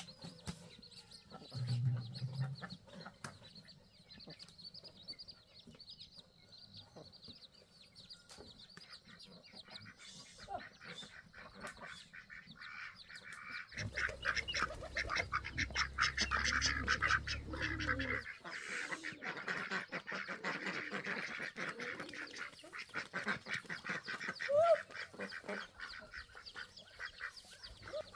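Farmyard poultry calling, geese and ducks honking and quacking, with the flock busiest and loudest in a stretch around the middle.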